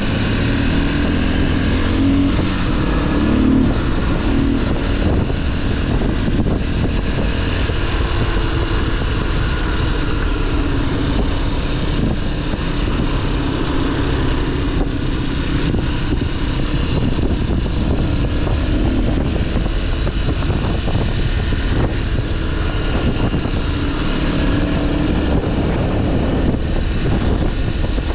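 Motorcycle engine running steadily while riding, heard from the rider's action camera with heavy wind rush on the microphone. The engine pitch wavers a little, with no sharp sounds.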